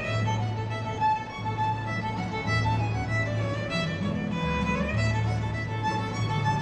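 A fiddle playing a lively tune over a bass line of held low notes. The music starts suddenly just before this stretch.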